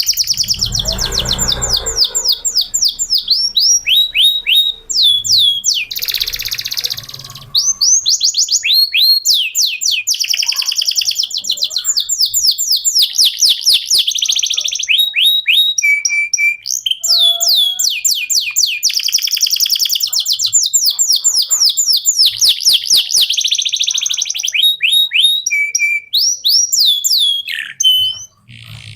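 Domestic canary singing a long, continuous song of fast trills, rapid runs of short downward-sweeping notes, with a brief harsh chattering passage partway through. A low rumble sits under the first two seconds.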